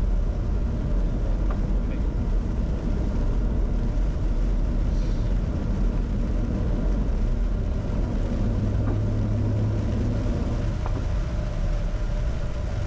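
Steady low rumble in a Bombardier Challenger 605's cockpit: the noise of its two rear-mounted CF34 turbofan engines and the airflow around the nose, even in level throughout.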